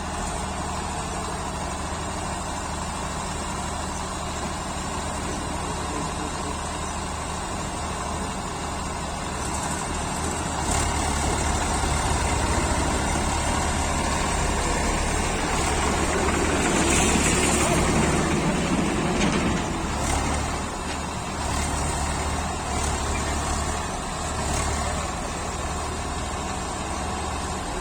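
Diesel tractor engine running steadily, growing louder about ten seconds in and loudest a little past the middle before easing back.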